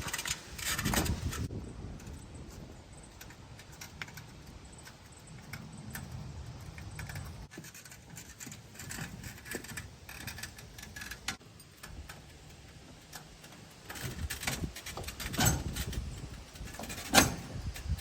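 Aluminum hand truck rattling and clicking as it is handled and wheeled about, with irregular knocks. The knocks come thicker near the end, where one sharp knock is the loudest.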